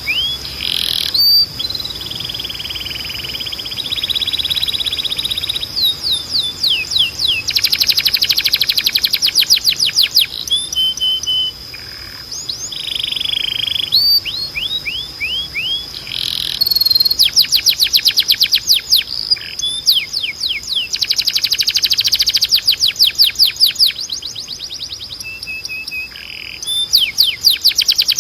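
Canary singing a long song: fast trills of rapidly repeated high notes that change to a new phrase every few seconds, mixed with short buzzing rolls, over a continuous steady high tone.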